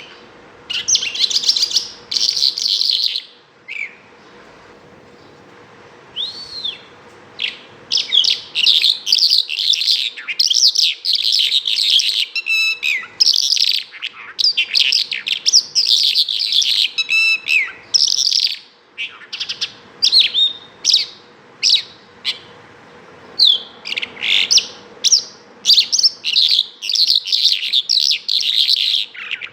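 Bimaculated lark singing: long runs of rapid, varied chirps and trills, broken by a few short pauses, with an occasional single arched whistled note.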